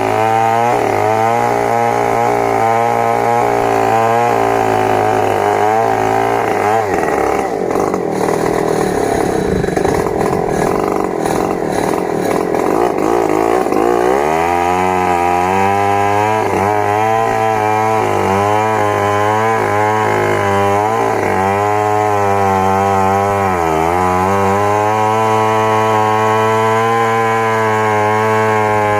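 Stihl MS 070 two-stroke chainsaw running hard. About a quarter of the way in its steady engine note sinks and turns ragged for several seconds as the saw is pulled down under load, then climbs back to a steady high rev. Near the end there is a short dip in pitch.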